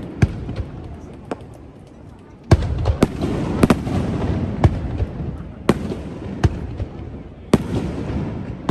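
Aerial fireworks bursting: sharp bangs about once a second with rolling rumble between them, and a heavier boom about two and a half seconds in.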